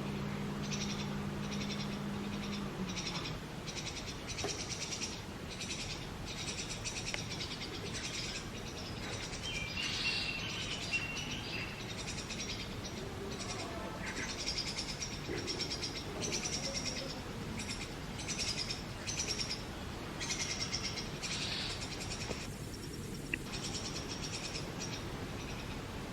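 Brahminy starling nestlings begging for food in a nest box: rapid, rasping chirps repeated over and over, with a short lull near the end. A low steady hum sounds under them for the first few seconds.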